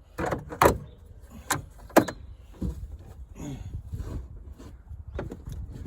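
Sharp clanks and knocks, the loudest about two seconds in, with short creaks and scraping between them, from a 1984 Corvette's hood and hinge hardware being worked loose by hand.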